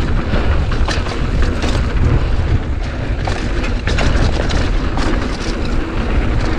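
Strong wind buffeting the action camera's microphone on a mountain bike descent, a heavy low rumble, with scattered sharp clicks and knocks from the bike rattling over the rough trail.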